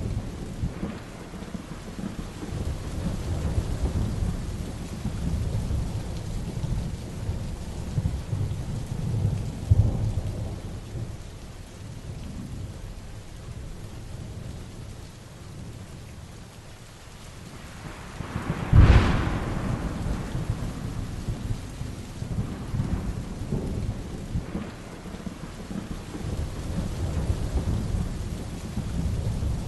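Heavy rain with continual low rolling thunder. A sharp, close thunderclap about nineteen seconds in is the loudest moment, with a lesser rumble swelling about ten seconds in.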